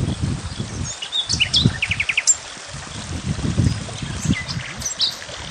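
Small songbirds chirping, with short high calls and a quick run of about five notes about two seconds in, over low rumbling gusts of noise.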